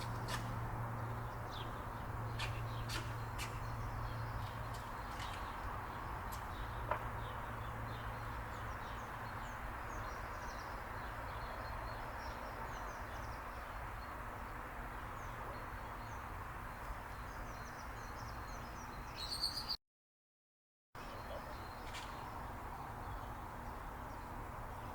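Small birds chirping in short calls, busiest in the first few seconds, over a steady outdoor background with a low hum. The sound drops out completely for about a second near the 20-second mark, then the background resumes.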